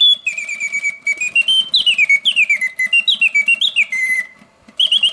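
Karl Griesbaum mechanical singing birdcage playing its bird song on the continuous setting, the bellows-driven piston whistle warbling in quick phrases of notes that glide up and fall back, with fast trills, strong and loud. The song breaks off briefly about four seconds in and then starts again, over a faint rapid ticking of the clockwork mechanism.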